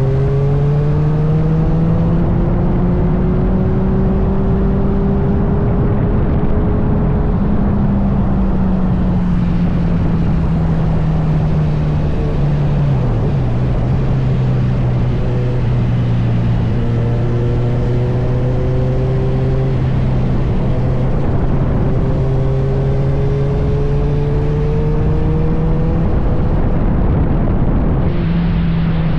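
Kawasaki Z900's inline-four engine running while riding, its note slowly rising and falling with the throttle, over loud wind rush on the helmet microphone.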